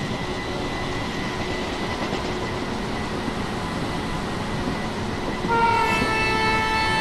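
A passing train running with a steady rumble of wheels on track. About five and a half seconds in, a train horn starts suddenly and holds one steady chord.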